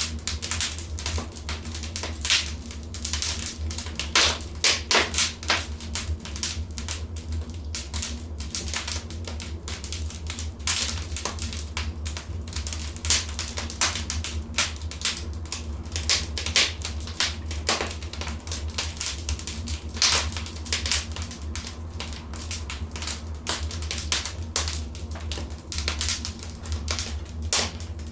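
Wood fire crackling in a fireplace: a steady run of irregular snaps and pops, a few louder than the rest, over a constant low rumble.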